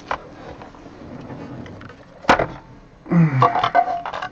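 Trading cards being handled, with a soft rustle and one sharp click about halfway through. Near the end comes a brief murmured voice.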